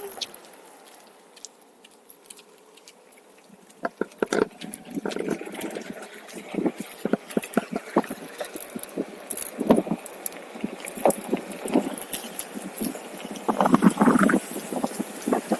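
OneWheel electric board rolling along a rough trail, with irregular knocks, rattles and crackles that start about four seconds in and come thicker near the end.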